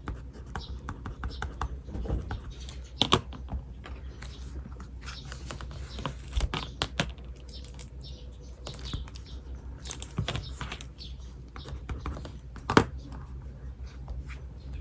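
Writing by hand on paper: irregular scratching strokes and light taps of the pen, with two louder clicks, one about three seconds in and one near the end.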